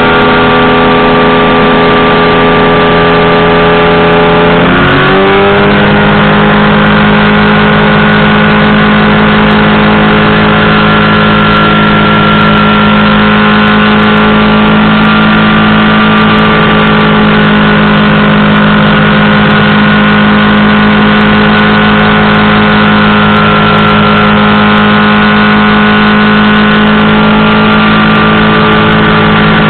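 Powered parachute's engine and propeller running loud at high power, very close to the microphone; the pitch climbs quickly about five seconds in as the throttle goes up, then holds steady.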